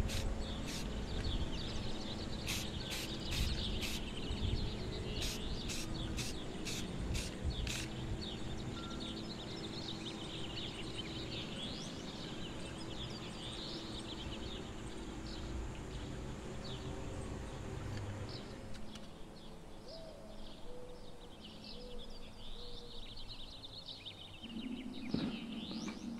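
Outdoor ambience of birds chirping and singing, with short high calls throughout and a steady low hum underneath.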